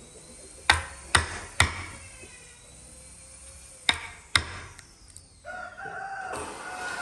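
Five hammer blows, three in quick succession and then two more, each with a short ring. Near the end a rooster crows once.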